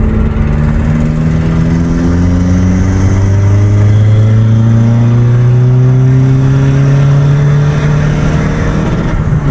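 Tuned Peugeot 206 2.0 HDi four-cylinder turbodiesel pulling hard under acceleration, heard from inside the cabin. Its note climbs steadily for about nine seconds, then drops suddenly near the end at a gear change or lift-off.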